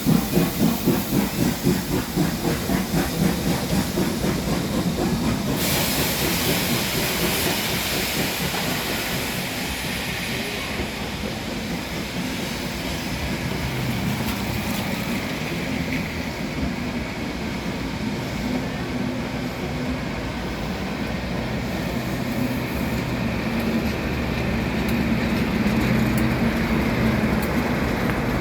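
BR Standard Class 7 Pacific steam locomotive 70000 Britannia pulling away with a train, its exhaust beating rapidly and evenly at first. About six seconds in, a strong hiss of steam lasts about five seconds. Then the train rolls past with a steady rumble, wheel clatter and a low hum.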